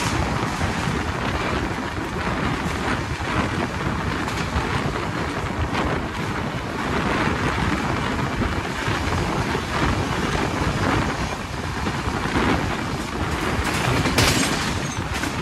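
Sealdah Duronto Express train running along the track: a steady, loud rush of running noise with scattered faint clicks from the wheels and rail joints.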